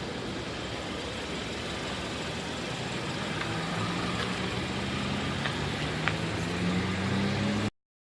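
A car engine running close by with a low, steady drone that grows louder over the last few seconds, then the sound cuts off abruptly.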